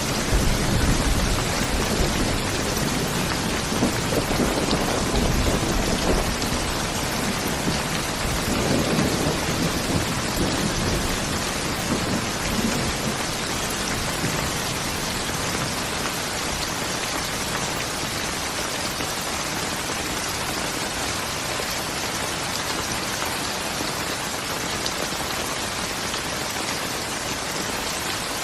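Steady rain falling, with a low rumble of thunder rolling through the first half and dying away about halfway through, leaving only the rain.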